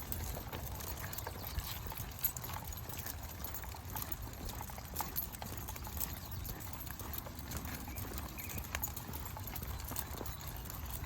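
Footsteps of a walker and a pack of dogs on a trail: many scattered small clicks and steps, irregular rather than evenly paced, over a steady low rumble.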